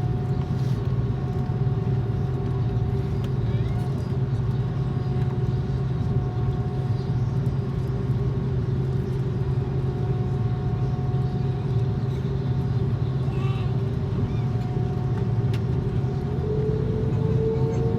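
Airbus A330's jet engines running with a steady low drone and a constant whine. Near the end a tone begins to rise, as the engines start to spool up.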